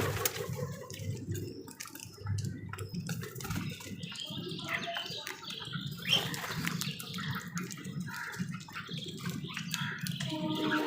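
Crows and other wild birds calling on and off over a low, steady rumbling background, with scattered clicks. Near the end a steady held tone with overtones comes in.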